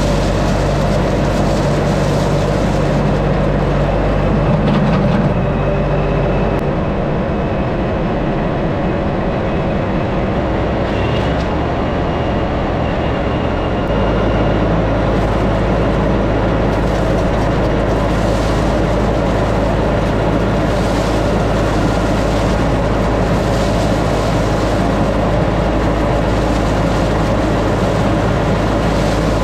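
LS MT357 compact tractor's diesel engine running steadily under load, its low note changing about 14 seconds in as the engine speed shifts.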